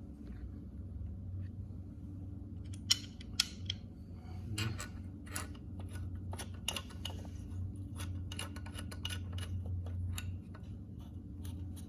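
Hand tools and metal parts clicking and clinking during work on a tractor's water pump, with two sharp clicks about three seconds in and lighter taps after, over a steady low hum.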